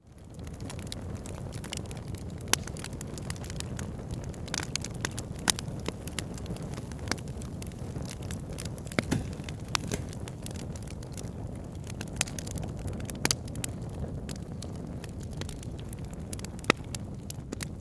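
Fire crackling in a fireplace: a steady low rush of flame with frequent sharp snaps, and a handful of louder pops a few seconds apart.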